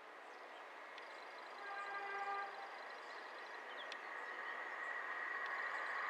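Class 158 diesel multiple unit approaching, its running noise growing steadily louder. It sounds a single held horn note for about a second, roughly two seconds in.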